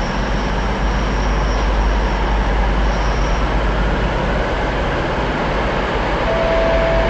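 Approaching locomotive-hauled train: a steady rumble of the engine and the wheels on the rails. About six seconds in, a single held tone starts.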